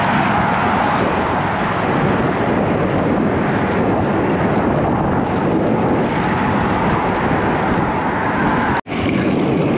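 Steady rush of wind on the microphone of a cyclist riding at speed in gusty wind, with road traffic noise mixed in. The sound cuts out for a split second near the end.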